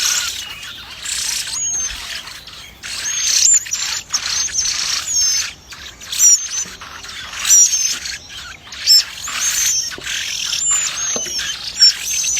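Small birds chirping rapidly in high-pitched, overlapping calls, with a few sharper, louder chirps standing out.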